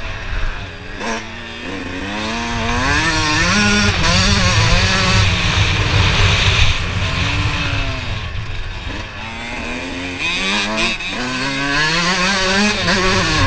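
Motocross bike engine being ridden hard, its pitch rising and falling again and again as the throttle is opened and shut through the gears.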